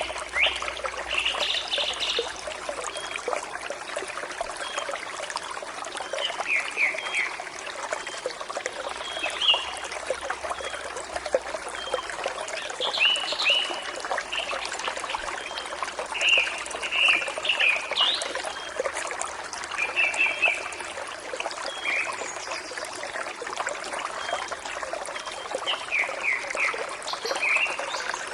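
A forest stream trickling and splashing steadily, with birds singing short runs of quick chirps every few seconds.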